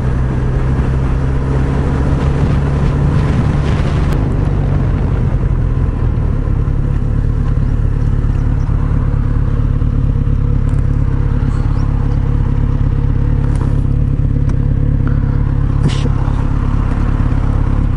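Kawasaki Z900RS's inline-four engine running steadily under way, its note shifting about four to five seconds in and then holding even.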